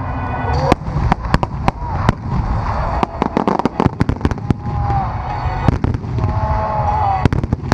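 Fireworks display: many sharp reports from shells and cakes firing and bursting, several a second in an irregular barrage, over a constant low rumble.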